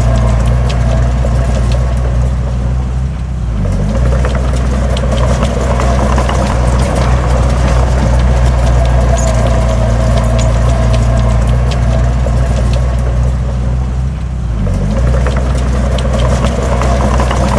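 Heavy diesel engine of earthmoving equipment running steadily under load, its pitch dipping briefly twice, with a scatter of metallic clicks and rattles over it.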